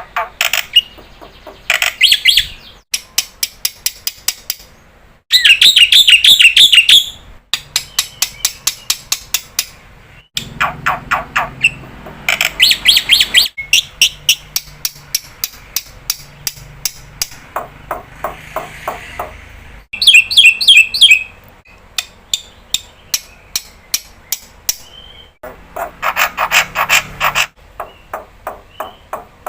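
Black-winged starling (jalak putih) calling loudly in bursts of a second or two: fast runs of repeated harsh, clicking notes and ringing whistled phrases, with short pauses between bursts.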